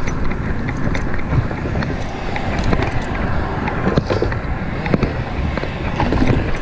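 Wind buffeting the microphone and road noise from a fixed-gear bike being ridden, a steady low rumble with scattered small clicks and knocks.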